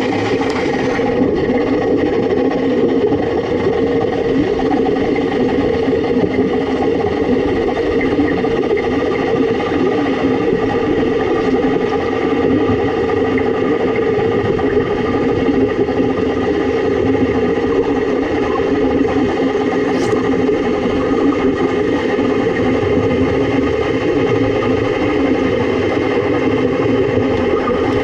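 Underwater stick-welding arc running continuously: a loud, steady buzzing drone with a few steady tones through it.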